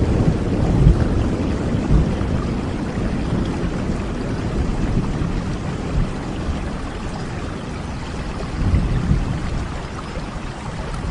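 Steady rain with low rumbles of thunder, the rumble strongest at the start, fading, then swelling again about three-quarters of the way through.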